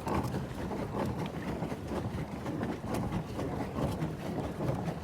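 Wind buffeting the microphone over water, a steady rumble with small irregular splashes of water.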